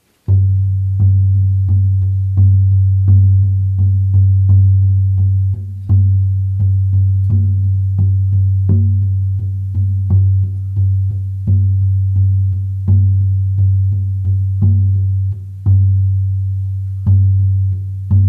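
18-inch hair-on horse skin frame drum on an ash frame, struck with a soft beater in a steady beat of about three strokes every two seconds. Each stroke gives a deep boom whose low ring carries into the next.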